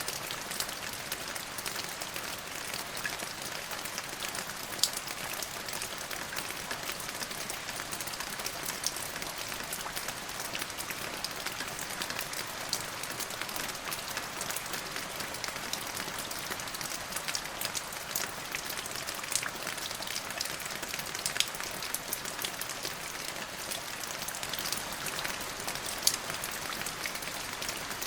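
Steady rain falling, a constant hiss dotted with many sharp ticks of single drops striking a surface, a few of them louder. No thunder is heard.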